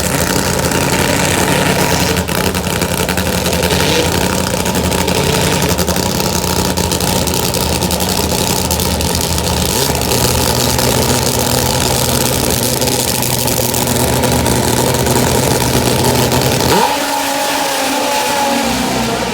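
Top fuel drag motorcycle engine running loud and steady with a deep rumble. Near the end the rumble cuts off and a higher engine note rises in pitch.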